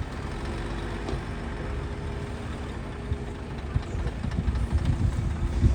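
Diesel engine of a heavy earthmoving machine running steadily, growing louder with uneven low rumbles in the second half.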